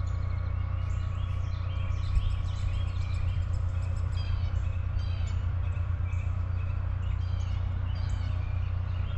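Several songbirds chirping and calling in quick, repeated notes over a steady low rumble.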